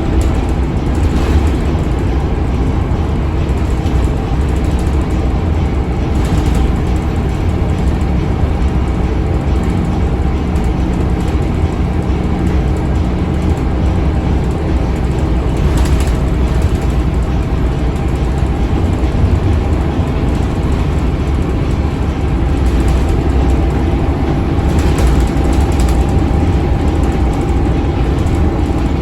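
Scania K280UB bus's DC9 five-cylinder diesel and drivetrain running at a steady pace on the road: a loud, even low drone with a few steady tones over it. Several brief rattles or bumps sound through it.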